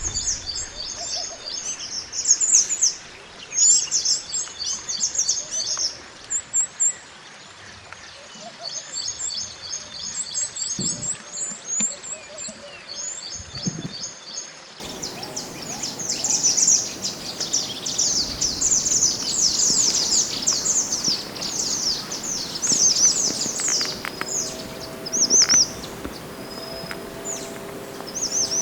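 Wild songbird (mantenan gunung) singing in rapid, high-pitched chirping trills, with a change to a different song recording about halfway through.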